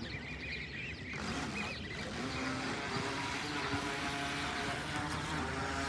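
Motorboat engine running steadily, its hum and the wash of noise coming in about a second in.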